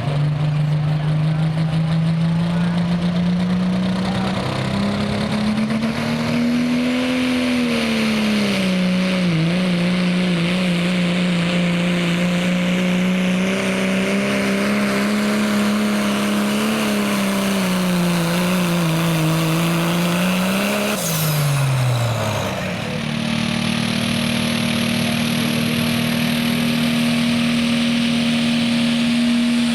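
Diesel pickup with a 2.6-inch smooth-bore turbo working hard under load in a truck pull, its engine note wavering slowly up and down with the revs. About two-thirds of the way through, the revs drop sharply and a high turbo whistle falls away. The engine then comes back up and holds a steady, higher note.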